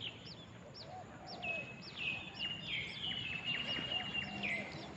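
Wild birds calling in forest: a short, high, arching chirp repeated about twice a second, joined by a longer, steady whistled note from about one and a half seconds in until near the end.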